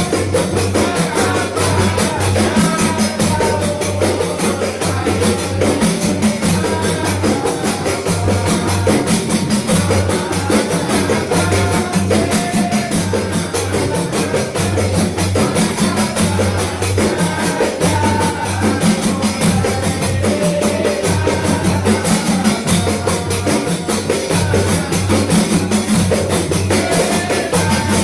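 Javanese terbang frame drums played together in a fast, steady interlocking rhythm: many sharp hand strikes over deep bass strokes, with voices chanting over the drums.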